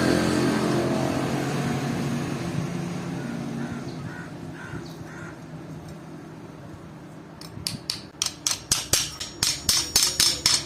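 A low running noise fades away, then from about seven seconds in a hammer strikes steel in a quick run of ringing blows, about five a second.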